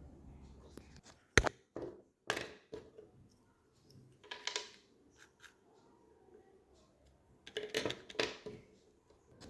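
Small objects being handled by hand: a cluster of sharp taps and clicks a little over a second in, then two short scraping rustles, one near the middle and a longer one near the end.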